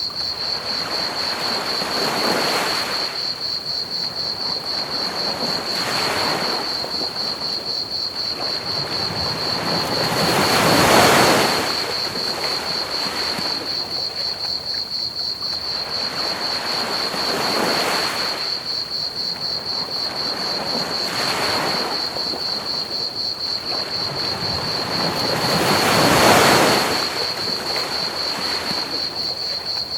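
Ocean waves breaking and washing in slow swells every few seconds, the two biggest about a third of the way in and near the end, over a steady, rapid chirping of crickets and an even hiss of pink noise.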